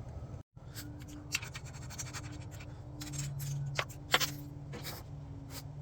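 Scattered clicks and short scrapes of small metal parts and hand tools being handled, over a steady low hum.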